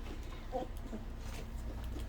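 Young puppies, about three and a half weeks old, giving a few short, high squeaks and whimpers.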